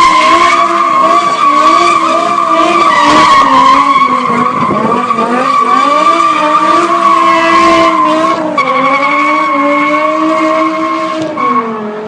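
BMW M6's V10 engine through a race exhaust, held at high revs with the revs bouncing up and down as the car drifts, over the steady squeal of the rear tyres sliding. Near the end the revs fall and it gets quieter.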